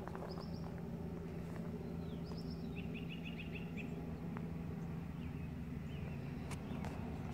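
Small birds chirping: a couple of short high chirps, then a quick trill of about seven notes around the middle, over a steady low hum.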